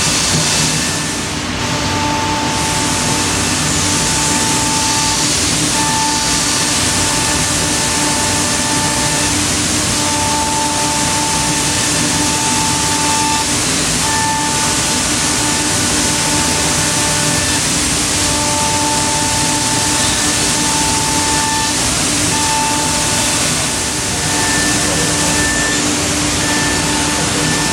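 C.R. Onsrud 5-axis CNC router cutting wood: a loud, steady hiss of routing over a constant hum, with a higher whine that cuts in and out every second or two as the cutter works along the part.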